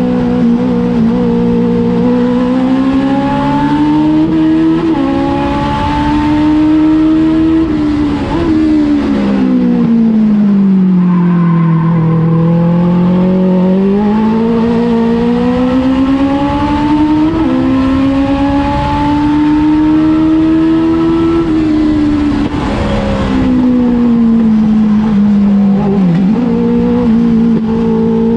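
Legends race car's Yamaha 1250 cc motorcycle engine running hard at high revs. Its pitch sags and climbs back twice, about a third of the way in and again near the end, as the throttle comes off and goes back on.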